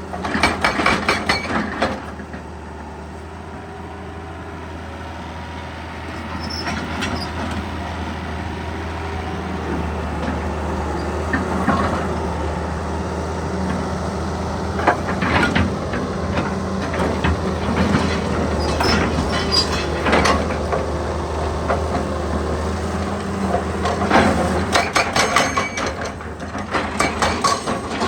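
Excavator's diesel engine running steadily, with bursts of rapid clattering from its hydraulic hammer breaking rock: one burst at the start, another near the end, and scattered knocks in between.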